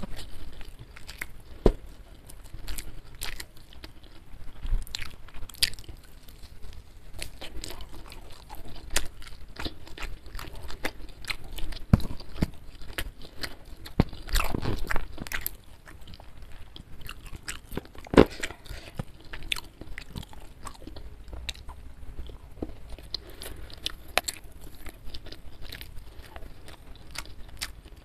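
Close-miked chewing and biting of a meal of fried chicken and rice eaten by hand: a steady run of short crisp crunches and clicks, with a few louder sharp crunches.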